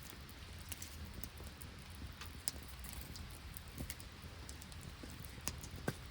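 Wood campfire crackling, with irregular sharp pops, a few louder ones about two and a half seconds in and near the end, over a steady low rush of rain and sleet falling.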